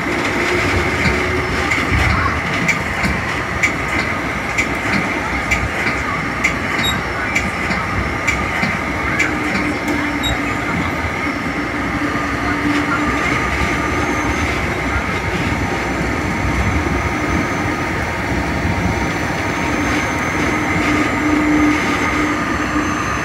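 Metra commuter train running along the track, heard from inside the leading cab car: a steady rumble and whine from the wheels and rails, with many sharp clicks over the first half as the wheels cross rail joints.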